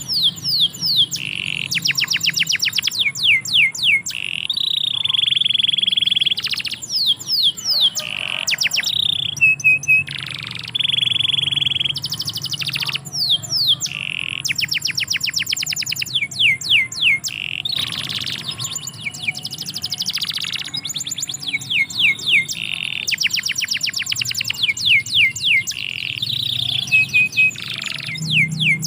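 Domestic canary singing a long, almost unbroken song of rapid trills made of quick falling notes, alternating with held high whistled tones.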